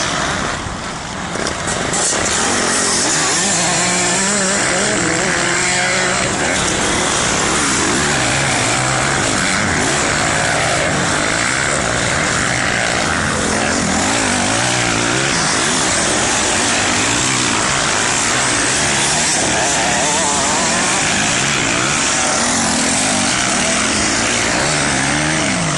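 Motocross dirt bike engine running hard, its pitch rising and falling over and over as the throttle opens and closes.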